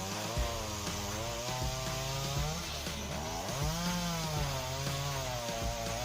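Two-stroke chainsaw cutting through a large block of wood, its engine note sagging and climbing again several times as the chain bites and frees in the cut.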